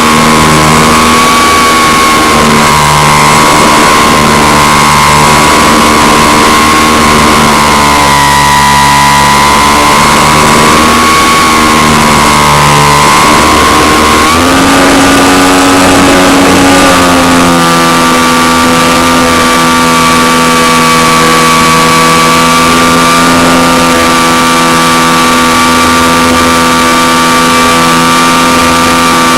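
Model airplane engine running steadily at high speed. Its pitch wavers a little, rises about halfway through, then holds at a higher, even note.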